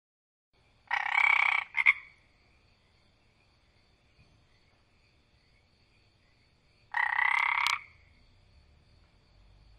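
A frog croaking twice: a croak just under a second long with a short extra note right after it, then a second croak about six seconds later.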